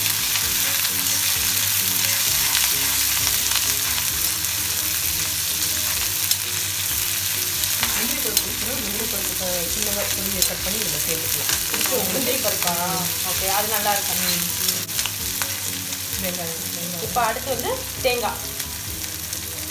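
Sliced shallots frying in hot sesame oil in a wok: a steady sizzle, with the clicks and scrapes of a steel slotted spatula stirring them against the pan.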